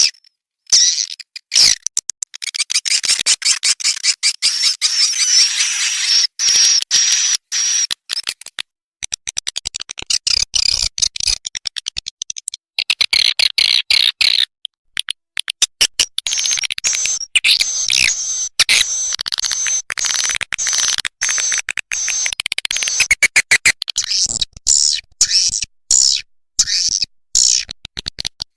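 Recorded swiftlet calls played as a swiftlet-house lure sound: dense, rapid clicking chirps and twitters with a high, thin trill over them, broken by short pauses twice.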